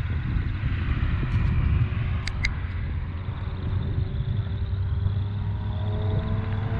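A car engine running at low revs with a steady low rumble, its pitch creeping up slowly, and two sharp clicks about two and a half seconds in.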